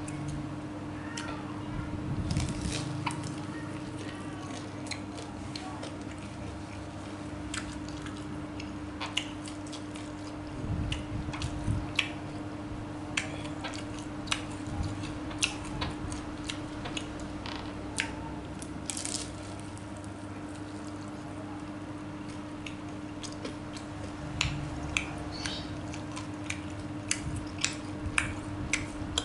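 Close-miked eating of extra-spicy tofu: wet chewing and squishing mouth sounds with scattered sharp clicks and smacks, over a steady low hum.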